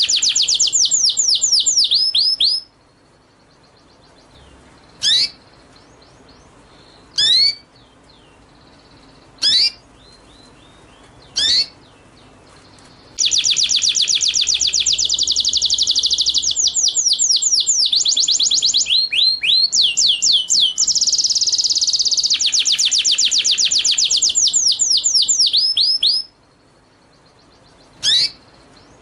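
A small songbird's song: long bouts of very rapid, high trilled notes, and between them single sharp rising whistled notes about every two seconds.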